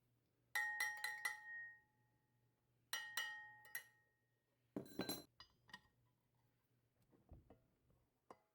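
A hard, ringing object clinking: a group of about four strikes, then three more, each ringing with the same clear tone. A louder clattering knock follows about five seconds in, then a few faint taps.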